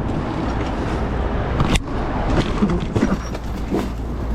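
Electric dirt bike on the move: a steady rush of wind and tyre noise with a low rumble, and a sharp knock from the bike about two seconds in.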